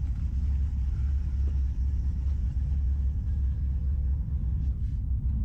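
Steady low rumble of vehicle engines running at idle.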